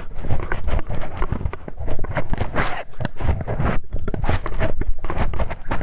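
ASMR ear-cleaning sounds: a tool scraping and rubbing in the ear of a close microphone, making dense, irregular crackly clicks.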